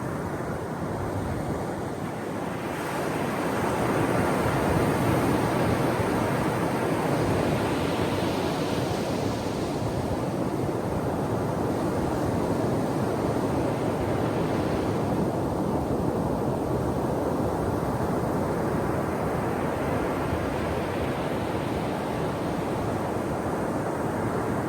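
Ocean surf washing onto a shore in a continuous hiss. It swells as a wave breaks about three seconds in, then again near the end.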